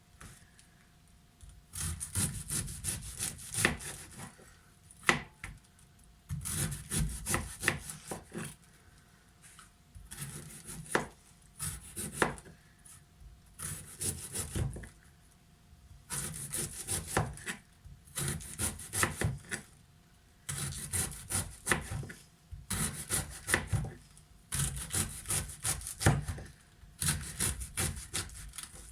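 Knife chopping red cabbage on a cutting board, in runs of rapid strokes broken by short pauses.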